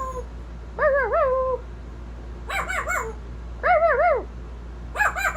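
African grey parrot calling in four short, loud, warbling phrases that waver up and down in pitch, about a second apart.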